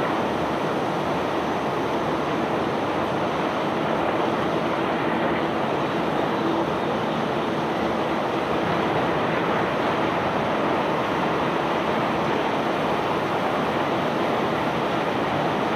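Steady rushing roar of cobblestones pouring off a self-unloading barge's conveyor, with a faint steady machinery hum underneath.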